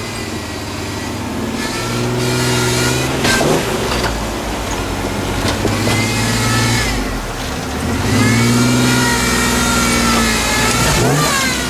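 Off-road 4x4 truck's engine revving hard in repeated surges, pitch rising and falling with each one, as it works over rough, rocky terrain; a couple of brief knocks come about three to four seconds in.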